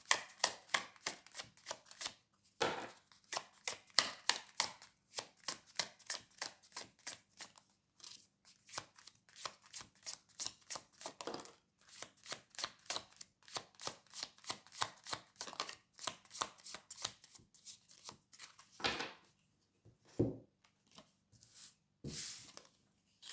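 Tarot cards being shuffled: a long, quick run of card clicks lasting about eighteen seconds, then three separate swishes near the end as cards are drawn and laid down.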